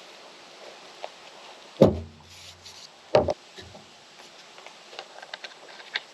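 Hardware being handled during assembly: small clicks and rubbing, a sharp knock about two seconds in with a short low ring after it, and another knock about a second later.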